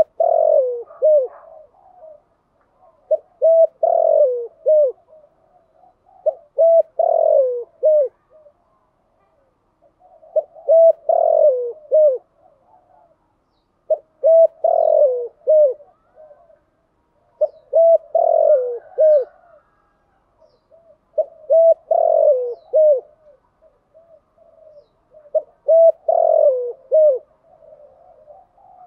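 Spotted dove cooing: a phrase of several short, rounded coos repeated about every three to four seconds, about eight times, with short pauses between phrases.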